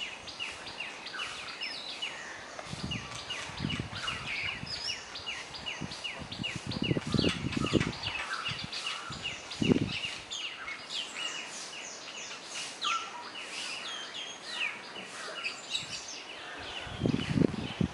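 Birds chirping outdoors, a dense run of short, quickly repeated calls. A few low muffled bumps come through, loudest about seven and ten seconds in.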